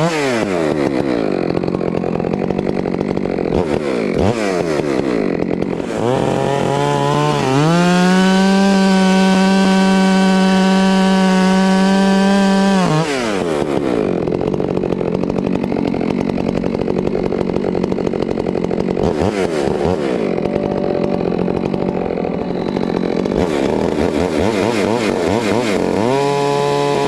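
Stihl MS462 two-stroke chainsaw running through a cut, its pitch rising and falling with throttle and load. It revs up and holds a steady high pitch for about five seconds in the middle, then drops to a lower, wavering pitch, and revs up again near the end.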